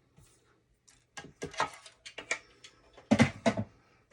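Paper and craft supplies being handled on a table: a run of short rustles and taps, loudest about three seconds in.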